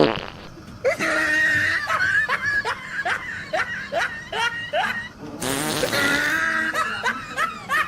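Snickering laughter in quick short bursts, about three a second, with a rasping fart noise a little past halfway.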